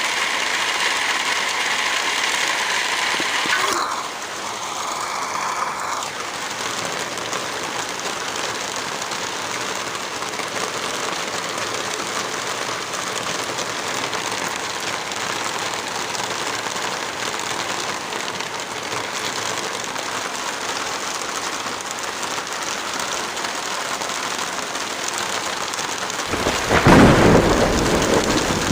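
Heavy rain falling steadily, its sound changing slightly about four seconds in, with a loud rumble of thunder near the end.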